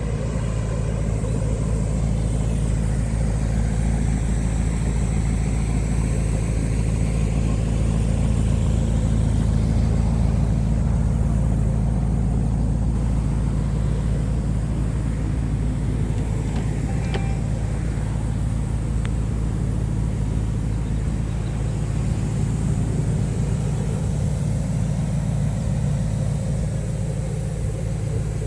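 Porsche Cayenne GTS Coupe's twin-turbo V8 idling steadily through its sport exhaust, a low, even hum with no revving.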